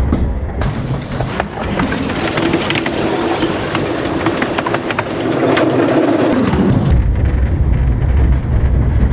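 Old train rolling with its wheels clattering and rattling. A wavering wheel squeal comes in about two seconds in and fades near seven seconds.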